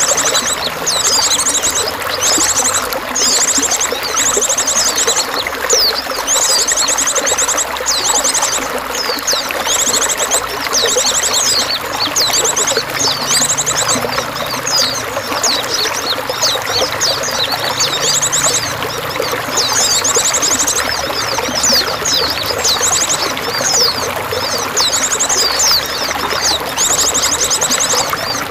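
Steady running, splashing water, with small birds chirping and giving rapid high-pitched trills over it again and again.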